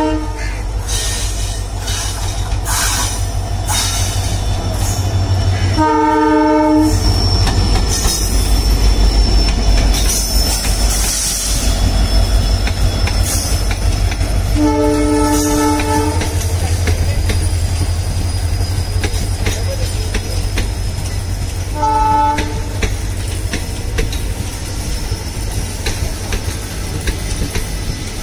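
Indian Railways diesel locomotive sounding a multi-note horn three times, the longest about fifteen seconds in and a short one near the end, over the low rumble of its engine as an express pulls past. Wheels click over rail joints, and a thin, steady wheel squeal comes from the rolling coaches.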